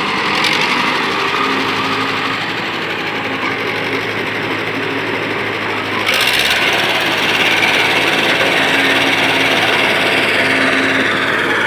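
Mahindra Arjun Novo tractor's diesel engine running steadily, growing louder and harsher abruptly about halfway through.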